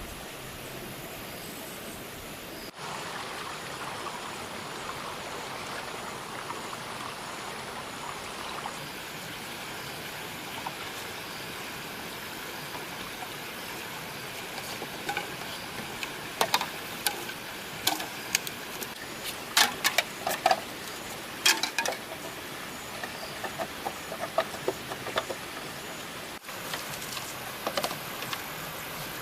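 Steady outdoor hiss, with a run of irregular sharp knocks and clicks in the second half, loudest around the middle of that run.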